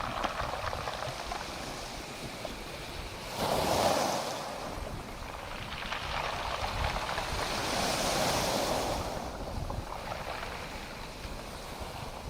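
Ocean waves breaking on the shore. A sudden surge comes about three and a half seconds in and a longer, broader one from about six to nine seconds, over a constant wash of surf and uneven wind rumble on the microphone.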